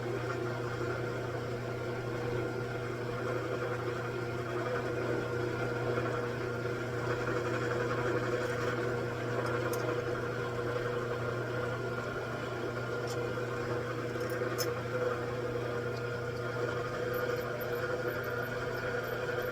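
A machine tool running with a steady, even hum, with a few faint light clicks about halfway through.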